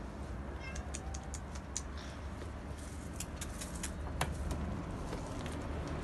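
Small birds chirping in a quick scatter of short, high chirps over a steady low rumble of traffic, with a single sharp click a little after four seconds.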